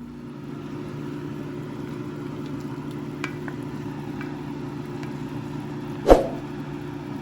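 A steady low mechanical hum, with one sharp knock about six seconds in.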